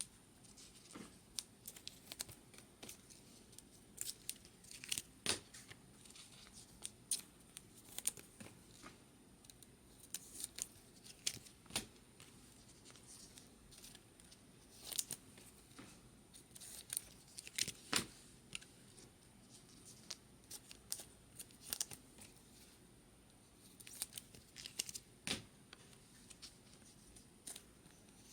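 Trading card packs being torn open and cards handled: crinkling wrappers and scattered short clicks and rustles at an irregular pace. A faint steady high-pitched whine runs underneath.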